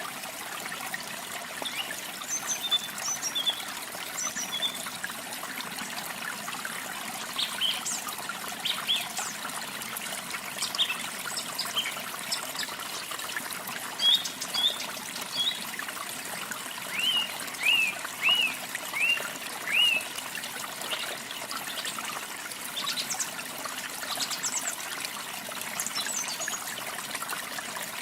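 Steady running water of a waterfall, with songbirds chirping over it in short, high notes; about two-thirds of the way through, one bird gives a run of five quick falling notes.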